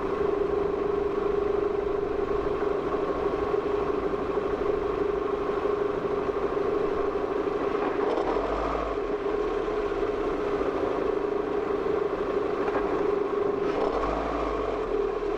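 Car running at low speed, heard through a dashcam in the cabin: a steady hum with a constant drone, and two brief low rumbles about eight and fourteen seconds in.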